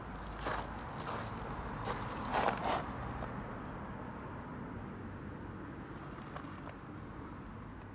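A few short scuffs or rustles in the first three seconds, the loudest about two and a half seconds in, then a steady low background hum.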